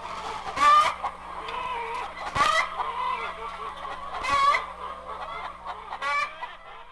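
A flock of chickens clucking, with a loud squawk breaking out about every two seconds, four in all, before the track fades.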